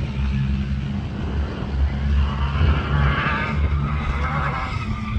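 Off-road safari race car's engine running steadily under load, with tyres skidding from about two seconds in until near the end.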